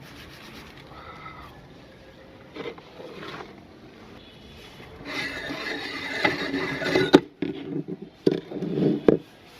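A meat grinder working on an item: after a few quiet seconds, a harsh grinding and crunching starts about five seconds in, ends in a sharp crack, and is followed by several short crunches.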